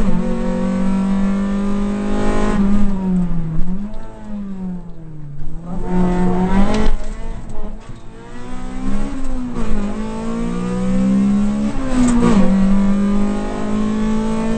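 Rally car's engine heard from inside the cabin, running hard with its pitch rising and falling as it accelerates, lifts off for corners and shifts gear, with deep drops about four seconds in and near ten seconds. A few sharp knocks sound over it.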